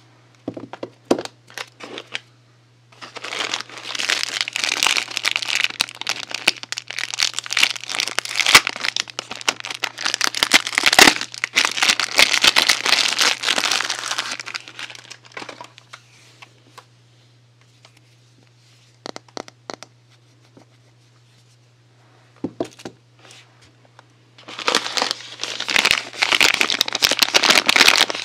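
Soap packaging being unwrapped by hand: crinkling and crackling in two long stretches, with a few separate clicks and rustles between them. A steady low hum runs underneath.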